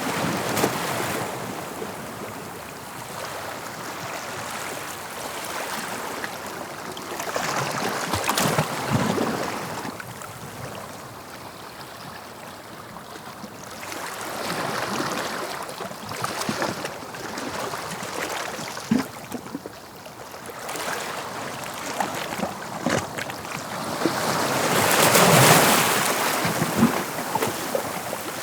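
Sea waves breaking on the shore: surf swells and falls away in several surges, the biggest break near the end, with fizzing and crackling of water draining back between them.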